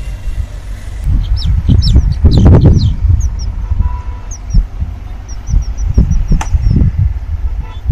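Birds chirping in many short, high, falling notes, in quick runs, over a loud, uneven low rumble.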